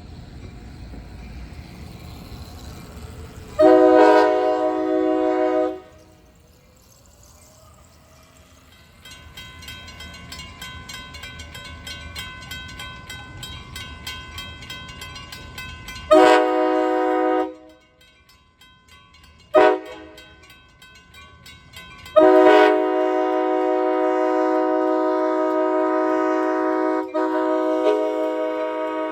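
Locomotive air horn sounding the grade-crossing signal: two long blasts, a short one, then a long one held on. It plays as a chord of several notes over the rumble of a passing train.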